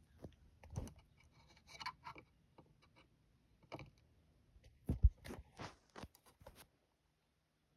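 Quiet handling noise from small objects being moved about: scattered scrapes and light taps, with two sharper knocks about five seconds in.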